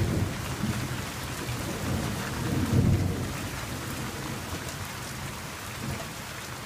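Thunder rumbling over steady rain; the rumble swells to its loudest about three seconds in, then dies away, leaving the rain.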